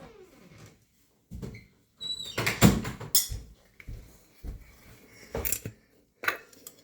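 Knocks and clatter of kitchen containers and utensils being handled and set down, loudest about two and a half seconds in, with a short falling squeal at the very start.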